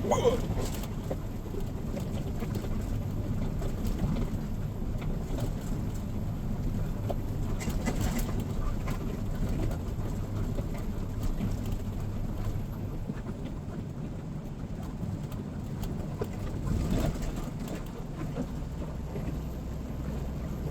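Steady low drone of a semi-truck's engine and road noise heard from inside the cab while driving. Near the end the drone's pitch drops lower.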